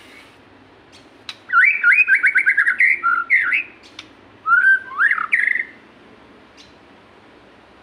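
White-rumped shama (murai batu) singing: a quick run of repeated whistled notes, then after a short pause a second phrase of rising whistled glides.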